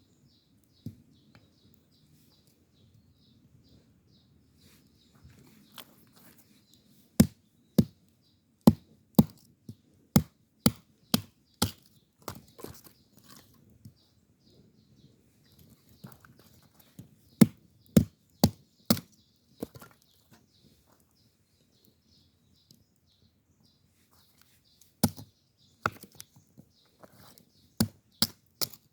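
Firewood being chopped for a campfire: runs of sharp knocks, about two strikes a second, in three bursts with pauses between.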